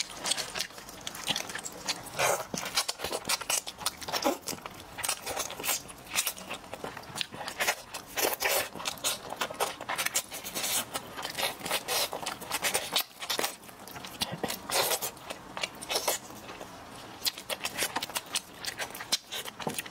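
Close-miked eating of steamed chicken: wet chewing and lip-smacking, a fast irregular run of short smacks and clicks as meat is bitten and pulled off the bone.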